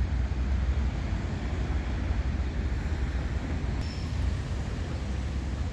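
Steady outdoor background rumble with an even hiss, with a faint short high peep about four seconds in.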